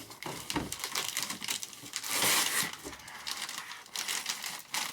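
Tape being pulled off a cardboard box, with crinkling and crackly handling noise throughout and a longer, louder rip about two seconds in.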